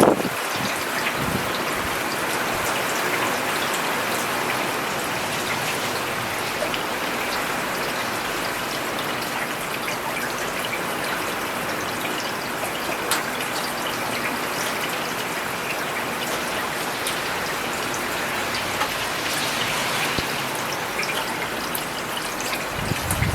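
Steady rain falling on a paved road: an even hiss with scattered sharp drop ticks.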